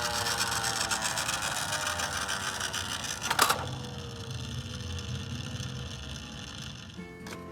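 A small mechanism whirring and slowly winding down, falling in pitch, with one sharp click about three and a half seconds in. Music starts near the end.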